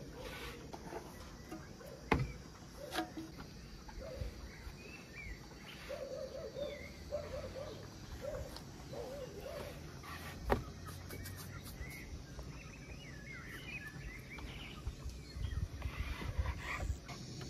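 Outdoor ambience with birds chirping and calling on and off. A few sharp knocks from dough being handled on a wooden board stand out, the loudest about two seconds in and again about ten seconds in.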